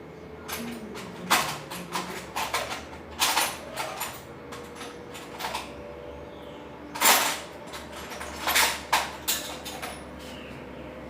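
An irregular series of knocks, clatters and short scrapes, as of hard objects being handled and set down. The loudest comes about seven seconds in.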